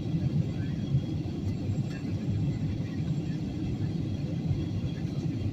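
Steady low rumble of airliner cabin noise in flight: engine and airflow noise heard from inside the passenger cabin.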